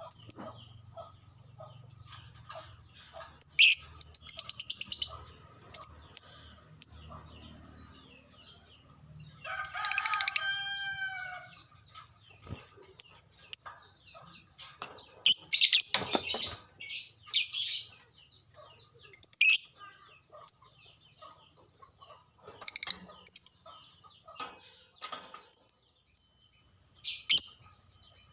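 Lovebirds chirping in rapid, shrill bursts, a lovebird song used as a 'pancingan' to stir other lovebirds into singing. About ten seconds in, a longer call rises and falls in pitch.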